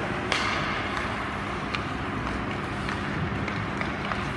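Ice hockey game on a rink: a steady wash of skating and arena noise with scattered sharp clicks of sticks and puck, the sharpest knock about a third of a second in.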